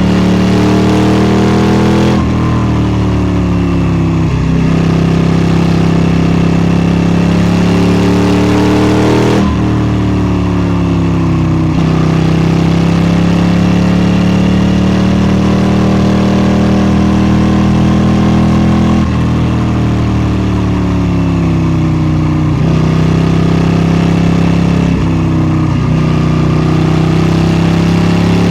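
KTM 790 Duke's parallel-twin engine under way, its revs rising and falling as the bike accelerates and slows. The pitch jumps sharply several times, once every few seconds, as it changes gear.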